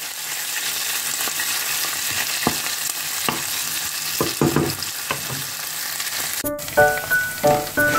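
Diced sausages and bacon sizzling as they fry in oil in a stainless steel pan: a steady hiss with a few sharp crackles. Near the end the sizzling cuts off and background music begins.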